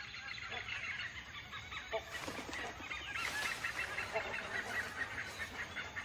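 Birds calling in a forest: a dense chatter of short, high chirps, with a few lower, louder calls standing out, one about two seconds in and another near the end.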